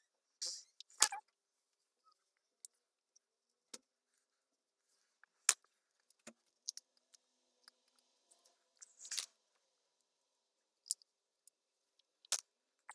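Sparse small handling clicks and rustles, with one sharp click about five and a half seconds in and a short rustle near nine seconds.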